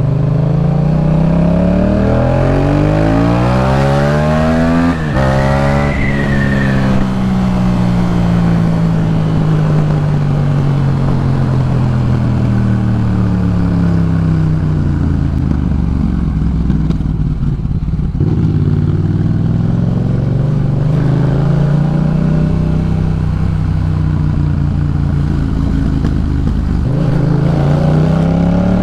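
Yamaha MT-07's 689 cc parallel-twin engine through a Jeskap K4 full exhaust, accelerating hard with rising pitch and a gear change about five seconds in, then falling slowly off the throttle for about twelve seconds. It then picks up and eases off again a few more times.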